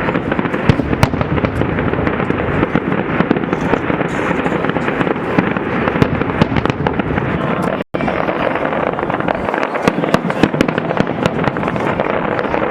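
Fireworks display: a dense, continuous barrage of bursting shells and crackling. The sound cuts out for an instant about eight seconds in.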